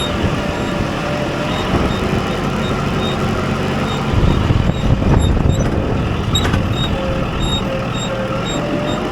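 A vehicle engine running steadily, with a short high-pitched electronic beep repeating at a regular pace. There is a louder low rumble between about four and five and a half seconds in.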